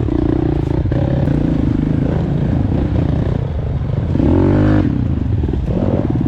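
Four-stroke dirt bike engine running on a trail under changing throttle, the pitch rising and falling, with a louder burst of revs about four seconds in.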